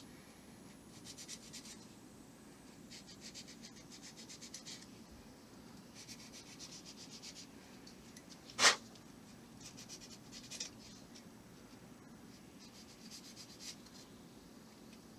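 Hand sanding of a model kit part's small locating pins: short bouts of quick back-and-forth rasping strokes with pauses between. A single sharp click about halfway through is the loudest sound.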